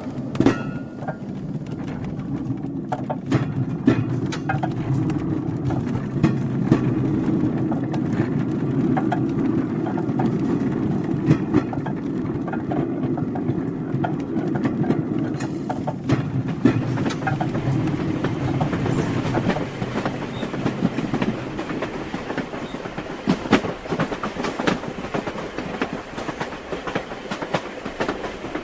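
Train wheels knocking and clattering on the rails over a steady low rumble, with many irregular sharp clicks; the rumble eases a little in the last quarter.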